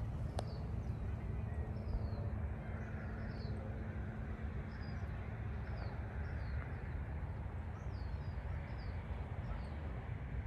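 Outdoor ambience: a small bird repeats short, high, downward-sliding chirps about once a second over a steady low rumble, with a single sharp click just after the start.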